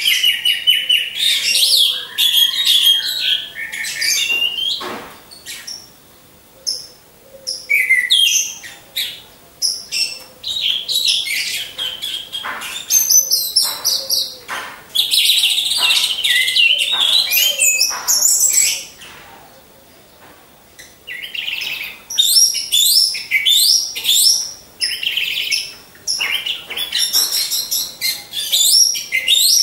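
Orange-headed thrush singing: long runs of rapid, varied, high chirping and whistled phrases, broken by two short pauses, once about five seconds in and again around twenty seconds in.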